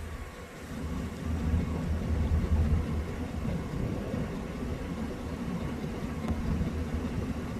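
Low, steady road and engine rumble heard from inside a moving vehicle, growing louder about a second in.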